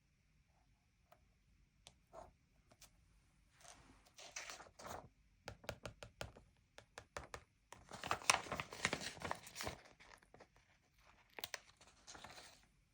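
Stickers being peeled off a sticker sheet and pressed onto a page: tearing and crinkling of paper backing in several spells, loudest a little past the middle, with small sharp ticks in between.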